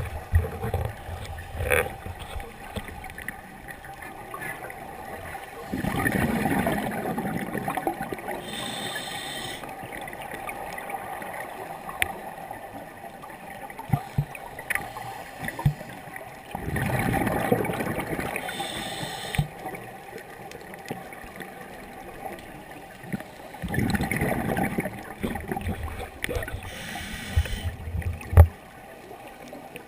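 Scuba diver breathing through a regulator underwater. Three slow breath cycles, each a short high hiss of inhaling through the regulator and a rush of exhaled bubbles lasting a couple of seconds, with scattered small clicks.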